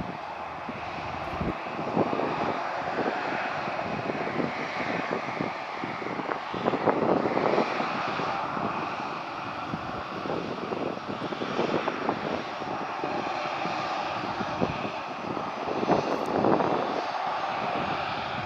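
Airliner jet engines running at high power: a continuous rushing jet noise with crackle, swelling louder a few times.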